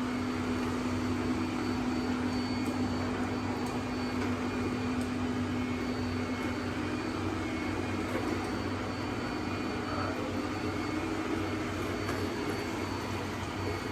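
Robot vacuum cleaner running steadily: an even motor and brush hum with a faint high whine.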